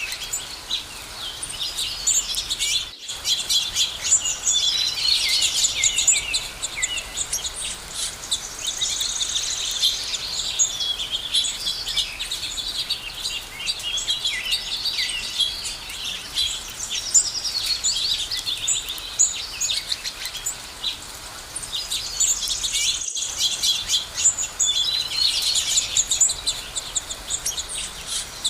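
A chorus of many songbirds chirping and trilling at once, high, busy and overlapping. The sound cuts out for an instant twice, about three seconds in and again near the end.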